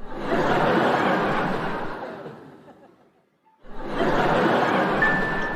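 A group of people laughing and chattering, in two swells that each fade out, with a short gap between them.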